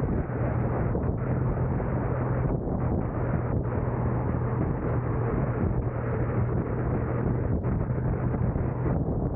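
A car driving along, with a steady drone of road and engine noise and a constant low hum.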